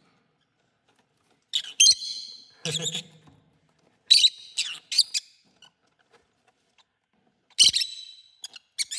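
Pet parrots giving harsh squawks and shrill calls in three short bouts with silences between, the sound of two birds squabbling and fighting.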